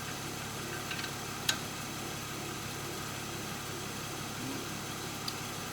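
Steady low background hum with two light metallic clinks about a second in, like hand tools on metal during axle removal, and a faint tick near the end.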